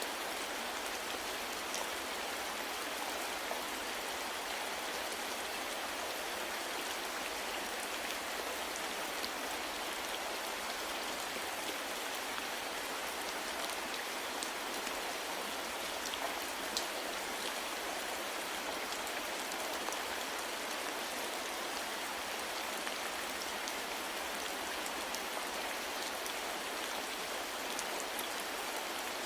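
Steady, soft rain falling, an even hiss with scattered individual drops ticking on a surface.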